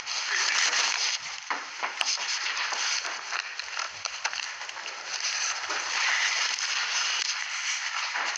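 Rustling, crackling handling noise on a recording microphone, with a few sharp clicks, one about two seconds in.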